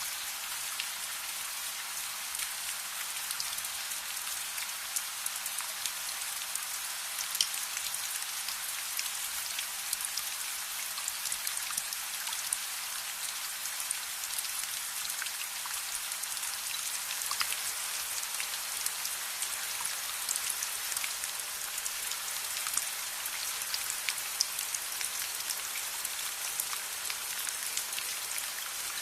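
Steady rain falling, an even hiss with many small sharp ticks scattered throughout.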